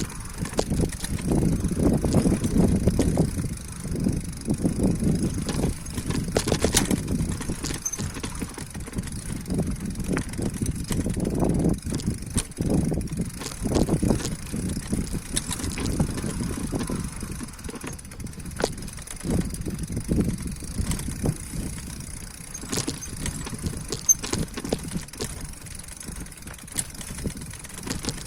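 Wind rumbling on the microphone of a moving bicycle, swelling and easing irregularly, with scattered clicks and rattles from the bike.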